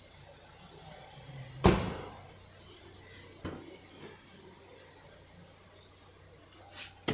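A door slams shut about a second and a half in, followed by a lighter knock about two seconds later and a short, sharp sound near the end.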